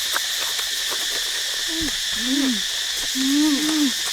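Steady chorus of forest insects such as crickets, joined about halfway through by two short, low, hoot-like hums that rise and fall in pitch.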